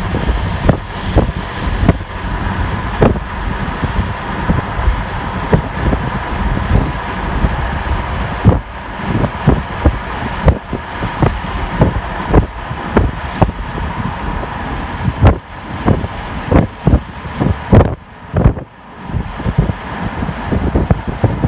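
A moving vehicle's steady rumble, broken by frequent irregular sharp thumps.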